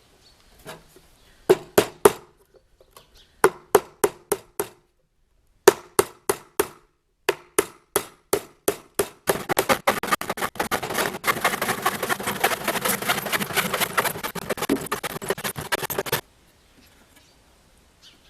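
A hammer driving nails into wood: sharp single blows in short runs of three to five. Then about seven seconds of much faster, dense striking that stops suddenly.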